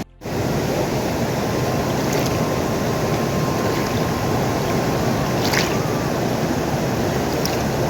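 Steady, even rushing of water: a dense hiss with no breaks or rhythm.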